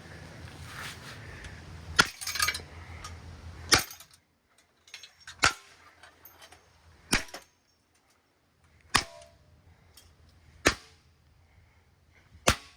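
Sharp, evenly spaced knocks, about one every second and a half to two seconds, from blows on a wrecked ceiling fan. A low steady hum underlies the first few seconds, then stops.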